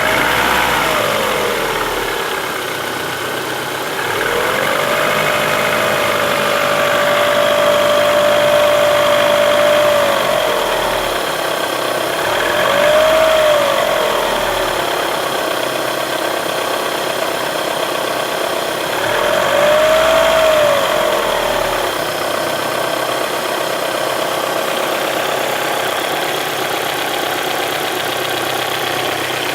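Vehicle engine idling and being revved: it is held at raised revs for about five seconds, then blipped briefly twice, settling back to idle each time. The engine is being run to hunt down a knocking noise.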